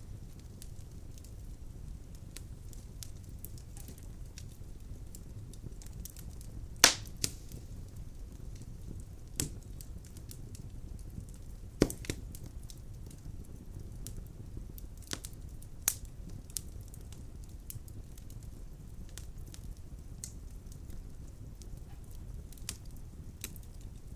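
Wood fire burning in a fireplace: a steady low rumble of flames with scattered sharp crackles and pops, the loudest about seven, twelve and sixteen seconds in.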